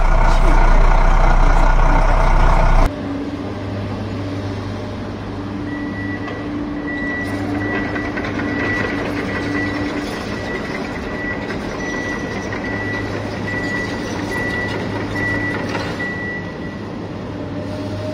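Heavy-vehicle engine running, the sound switching abruptly about three seconds in to a lower, steadier drone. From about six seconds in a reversing alarm beeps over and over, stopping about a second before the end.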